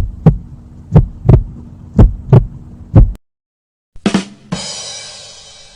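Heartbeat sound effect: paired lub-dub thumps about once a second over a steady low hum, stopping about three seconds in. About a second later comes a sharp hit, then a bright ringing crash that fades out.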